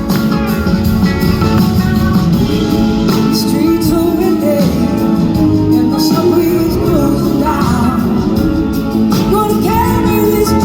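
Live rock band playing an instrumental passage, with a lead line that slides up and down in pitch over steady bass and chords.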